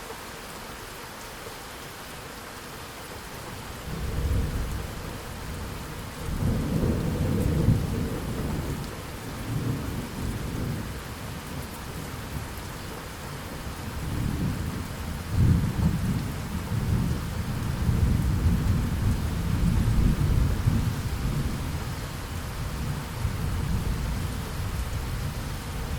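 Steady rain hissing, with thunder starting to rumble about four seconds in and rolling on through the rest, swelling and easing, loudest about a third of the way through and again just past halfway.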